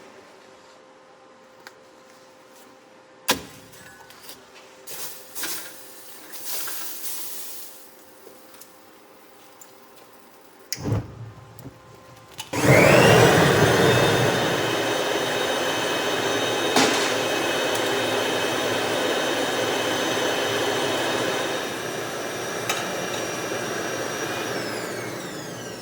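A few knocks and handling sounds, then about halfway through an electric grinder spins up with a rising whine and runs steadily while rough-grinding the forge-welded chain-steel blade. It winds down with a falling whine near the end.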